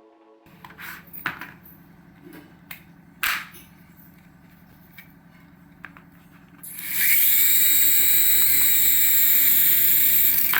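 A few clicks and knocks of handling, then the small electric motor of an RC toy aircraft starting and running for about four seconds with a loud, steady high whine.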